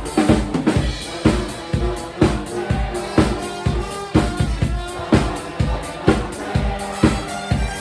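Live band playing an up-tempo song, with the drum kit's kick and snare hitting about twice a second over sustained bass and other instruments.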